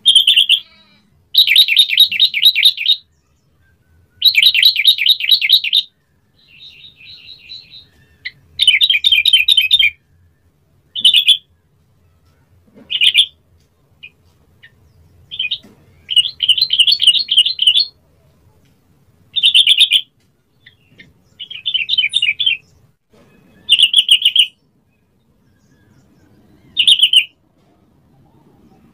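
Yellow-vented bulbul (trucukan) singing: about a dozen bursts of fast, bubbling song phrases, some lasting up to two seconds and others short single notes, with pauses of a second or two between them.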